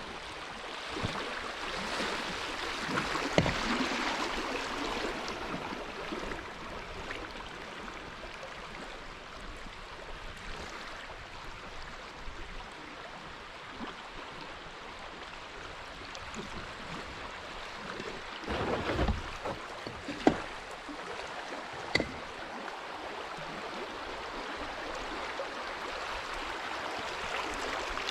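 Kayak on a moving river: a steady rush of water along the hull, swelling a few seconds in, with several sharp knocks, the loudest about 20 and 22 seconds in.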